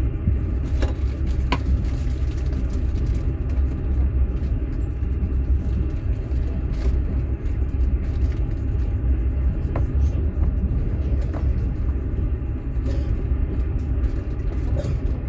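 Steady low rumble of a moving passenger train heard from inside a platskart sleeper carriage, with a few faint clicks and knocks.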